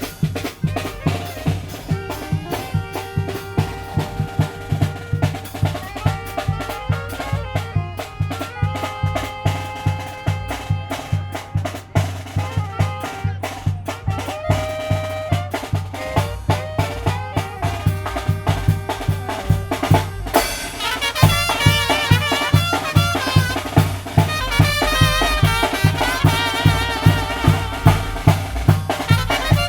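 Tamborazo band playing: brass horns holding melody notes over a steady beat of tambora bass drum and snare. About 20 seconds in the band gets louder and fuller, with wavering high horn notes.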